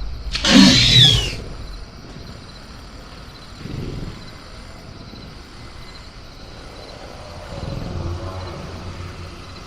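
Sound-designed velociraptor cage ambience: a loud, harsh burst of raptor noise about half a second in, then softer low rumbles around four and eight seconds over a steady night-jungle bed with faint crickets.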